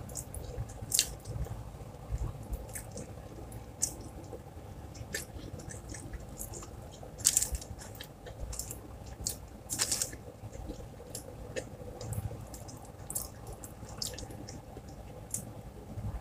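Close-up eating sounds: wet chewing and lip smacks while fingers pick at flaked fried salmon and rice, heard as scattered, irregular small clicks and squishes, a few louder ones about a second in, around seven seconds and around ten seconds.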